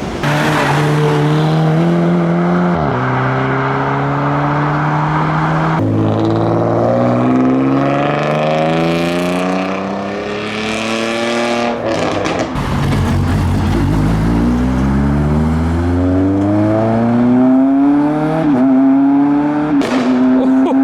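Modified car engines pulling away hard, revs climbing in long rising sweeps and dropping back at each gearchange, several times over.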